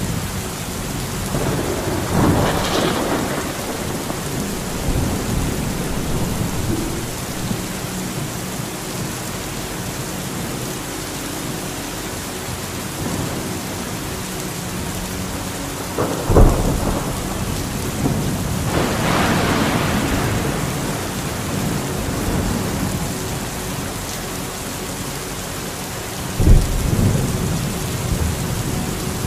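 Thunderstorm: steady rain throughout, with rumbles of thunder a couple of seconds in and again about two-thirds of the way through, and two sharp close thunderclaps, one just past halfway and one near the end.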